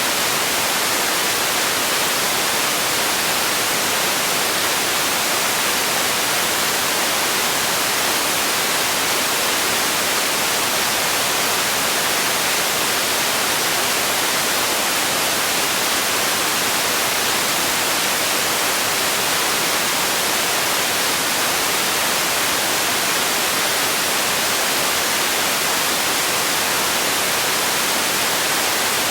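Steady hiss of white noise, an even, unchanging rush with most of its weight in the high end.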